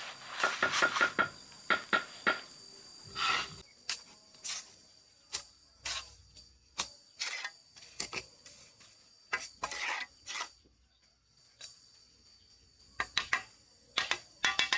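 Irregular light knocks and clinks, some in quick clusters, over a steady high chirring of insects.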